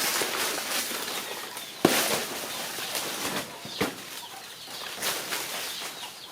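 Rustling and scraping of a banana trunk and leaves being handled and cut, with two sharp chopping knocks about two seconds apart.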